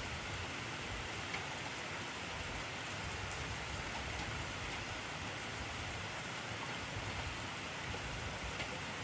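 Heavy rain falling steadily, a dense even hiss of drops on surfaces with a few faint individual drop ticks.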